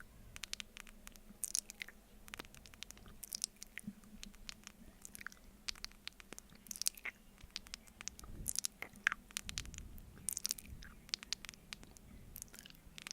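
Close-miked mouth sounds of eating honey off a spoon: sticky, wet clicks and smacks that come in clusters every second or two.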